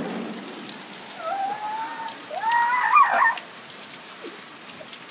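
Heavy rain pouring down in a thunderstorm, a steady hiss. About a second in, and again a second later, two rising, wavering high-pitched vocal calls sound over the rain.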